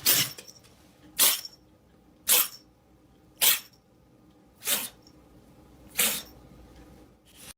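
A pet animal making a series of short, sharp, noisy bursts, evenly spaced about a second apart, six in all.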